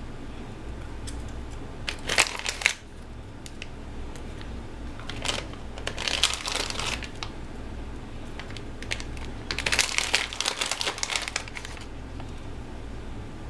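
Crinkling and rustling from something being handled, in several short bursts, over a steady low hum.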